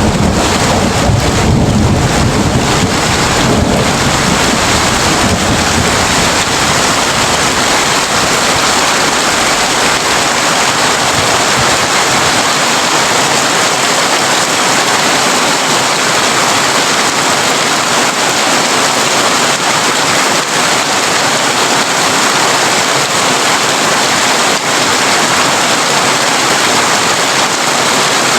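Heavy rain drumming steadily on a corrugated tin roof, a dense even patter. A low rumble of thunder underlies the first few seconds and fades away.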